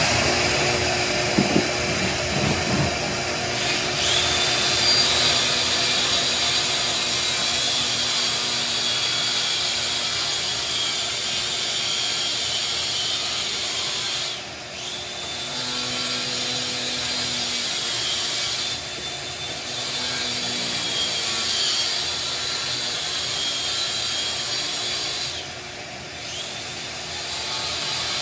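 A power tool cutting out ceramic wall tile in a shower, running steadily and loudly and easing off briefly a few times.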